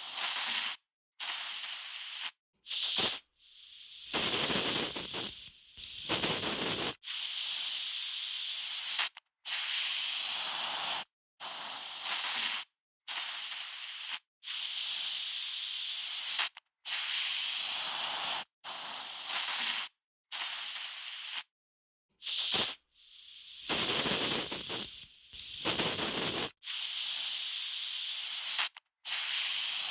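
Aerosol spray can spraying in repeated hissing bursts, each about one to two seconds long with short silent pauses between them; a few bursts run longer and fade away.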